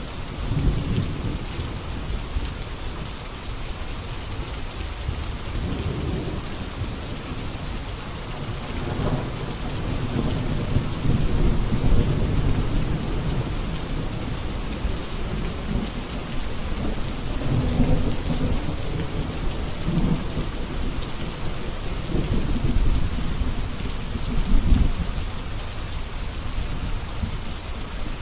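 Steady rain falling, with low rumbles swelling and fading several times through it.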